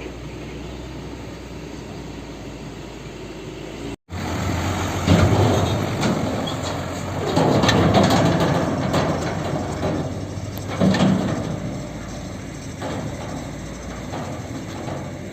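Heavy dump truck on a rough mountain track: the engine runs under a noisy clatter and rattle from the truck's body and load. The sound cuts out briefly about four seconds in, then comes back louder with heavy clanks about five and eight seconds in.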